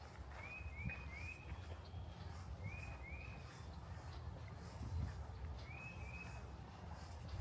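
A bird calling: short rising chirps given in quick runs of two or three, repeated every couple of seconds, over a steady low rumble.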